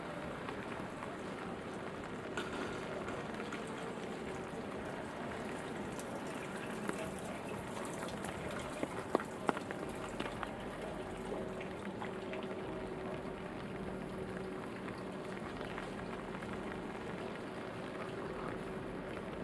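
Steady rainfall, with a few sharp drip taps standing out just after the middle. A faint steady low hum sits underneath.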